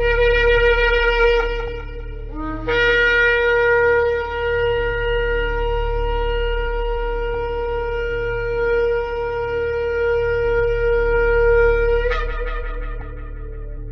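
Shofar blown in sustained blasts: a short blast, a brief lower note, then one long held note that jumps up in pitch near the end and fades away. A low steady hum runs underneath.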